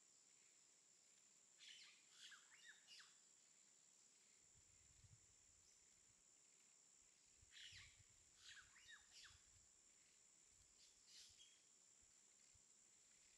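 Near silence: faint bird chirps in three short clusters over a steady high-pitched hiss.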